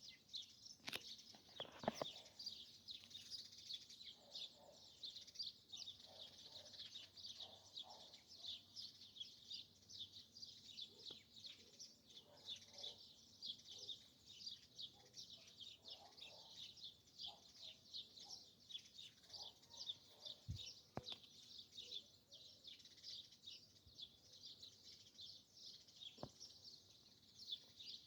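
Faint chorus of many small birds chirping, dense and unbroken throughout, with lower calls now and then and a few brief clicks.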